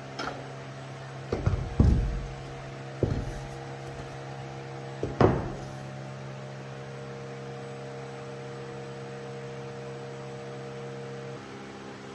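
Steady electrical machine hum, interrupted in the first few seconds by several sharp knocks, the loudest about five seconds in. Part of the hum cuts off near the end.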